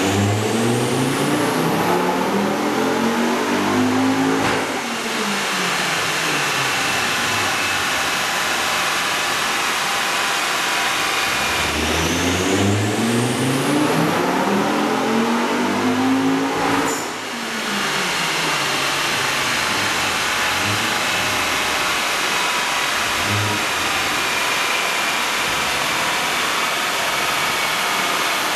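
Ford Focus RS 2.5-litre turbocharged five-cylinder engine making full-throttle power runs on a rolling-road dyno, the note rising steadily with rpm. The first pull ends about four seconds in. A second pull climbs from about twelve to seventeen seconds in and then cuts off. Between and after the pulls the engine and rollers run down to a steady idle.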